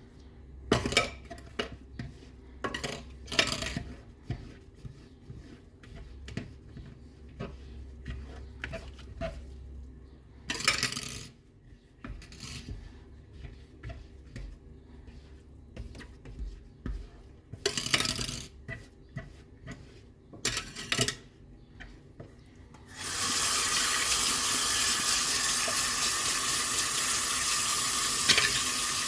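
Dishes and cutlery clinking and knocking in a kitchen sink while being washed. Near the end the tap is turned on and water runs steadily.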